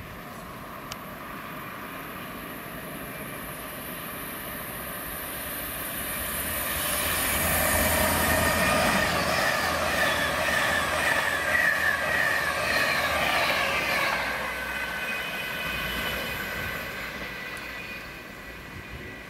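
Passing train: its noise builds over several seconds, is loudest around the middle with a whine among the rumble and hiss, then fades away.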